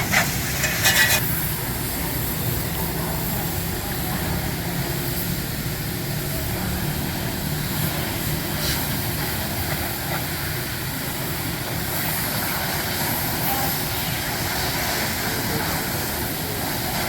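Steady hissing noise over a low hum, typical of car-wash equipment running, with a few sharp clicks about a second in.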